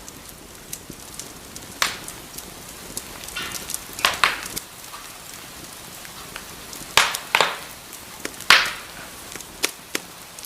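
Wood fire crackling in a fireplace: irregular sharp pops and snaps, a few of them loud, over a soft steady hiss of burning.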